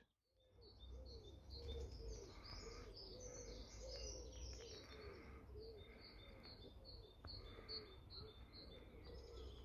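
Faint outdoor birdsong: many short, high chirps repeating quickly, with a lower call recurring every second or so, over a steady low background hum.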